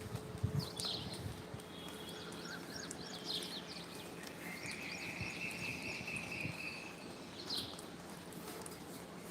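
Bird calls: short chirps several times, and a longer drawn-out whistled note in the middle. Light clicks and taps run underneath.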